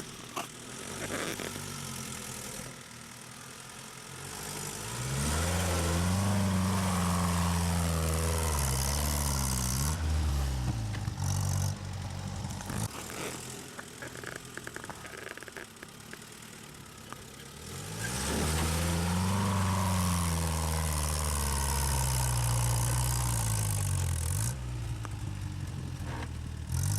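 UAZ off-road vehicle's engine revving hard under load, twice, each time climbing in pitch and then sagging over several seconds, with quieter running in between.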